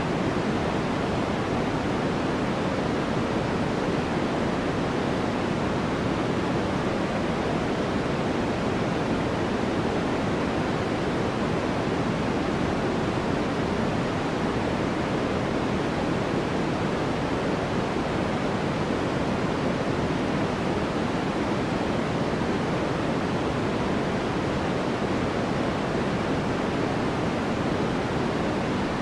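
Steady synthetic white noise for sleep: an even, unchanging rush with no rhythm or breaks, weighted toward the deeper end rather than a bright hiss.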